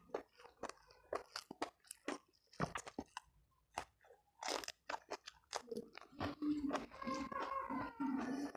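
A person eating close to the microphone, biting and chewing crunchy food with many sharp crunches. There is a short lull about three seconds in, then the chewing and crunching start again.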